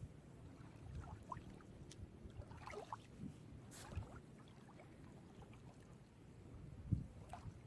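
Gentle sea waves lapping at the shore, a low, soft wash with wind on the microphone, and a few short, faint bird calls in the first half.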